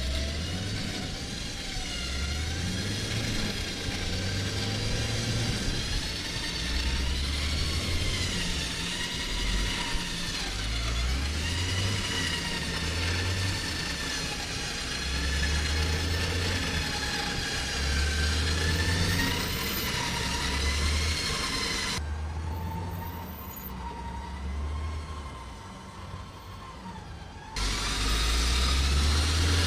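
Off-road SUV engine revving in repeated surges, with a wavering whine above it, while the vehicle is driven and pulled out of the soft wetland ground where it was bogged down.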